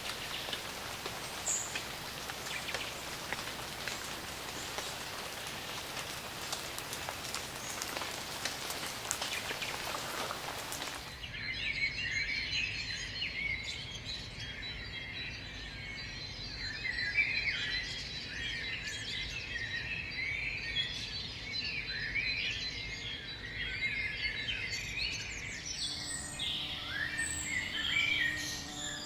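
A steady hiss of rain with scattered ticks of drops. About 11 seconds in it cuts to a chorus of rainforest birds chirping and whistling over a thin, steady high tone.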